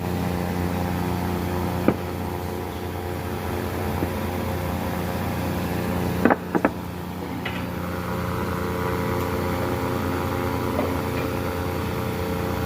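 Woodworking machine motor running with a steady hum, with a sharp knock about two seconds in and a quick pair of knocks around six seconds in.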